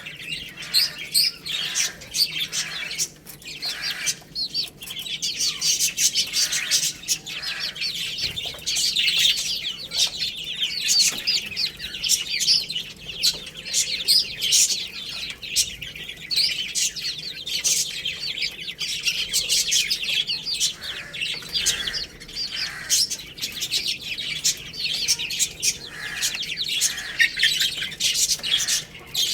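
A group of baby chicks peeping continuously, many short high chirps overlapping without a break.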